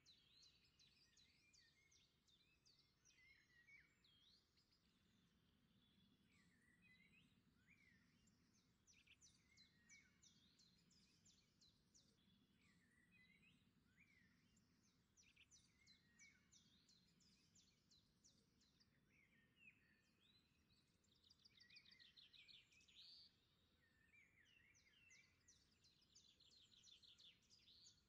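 Very faint birdsong: several small birds chirping, with rapid trills several times, over a faint low hum.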